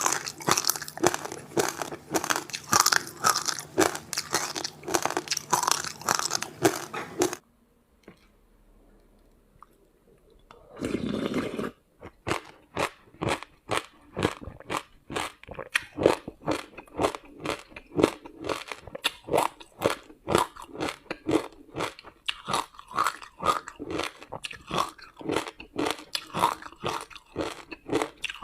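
Ice frozen with passion fruit and sesame seeds being bitten and chewed close to the microphone in loud, rapid crunches. The crunching breaks off for about three seconds near the middle, followed by a brief rustle, then resumes at a steady two to three crunches a second.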